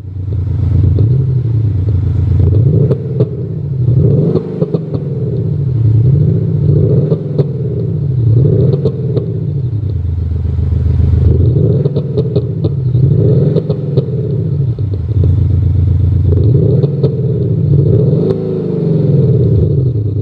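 Active-sound virtual exhaust system (Automotive Highend 6.0, two speakers) on a BMW 640d xDrive playing a synthetic exhaust note as the engine is revved repeatedly, the pitch rising and falling in about eight blips. Sharp crackles and pops, the 'popcorn' effect, sound between the revs.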